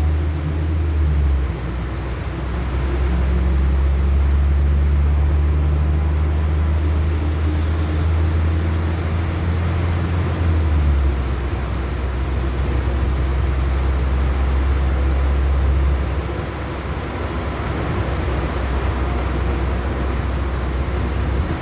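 Inside a LiAZ-6213.65 articulated city bus on the move: a steady low engine drone under road and cabin noise. The engine note shifts a few times, about a second and a half in, around ten seconds and around sixteen seconds.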